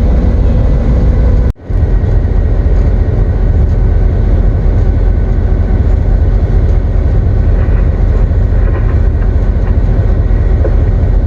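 Diesel locomotive running, heard loud and steady from inside the cab, with a brief dropout about a second and a half in.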